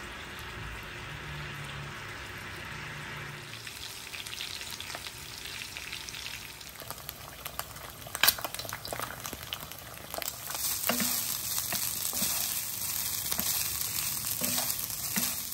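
Food frying in hot oil in pans: a steady sizzle with scattered sharp pops and clicks, growing louder about two-thirds of the way through. Near the end a wooden spatula scrapes and taps against the pan while fried rice is stirred.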